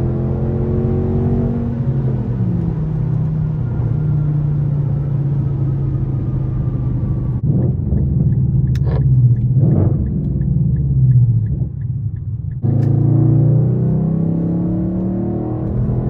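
Straight-piped Infiniti M56's 5.6-litre V8 exhaust while driving: the pitch falls as the revs drop, then holds steady at a cruise. Midway there are a few sharp pops and a steady ticking about twice a second, and near the end the revs climb again.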